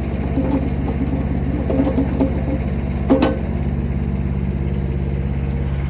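Mini excavator's engine running steadily while it digs, with a few metallic clanks and one sharp knock about three seconds in.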